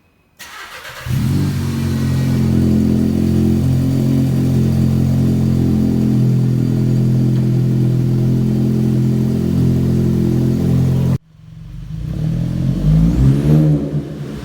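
Volkswagen Jetta 1.8T turbo four-cylinder exhaust, muffler deleted and fitted with a Borla resonator: the engine starts and settles into a steady idle for about ten seconds. After a sudden break near the end, it is revved once, the pitch rising and falling.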